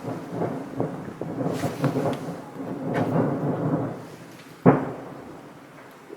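Distant aerial fireworks in a grand-finale barrage: many shells bursting in quick succession as a dense rumbling crackle for about four seconds, then one sharp, loud bang near the end that echoes away.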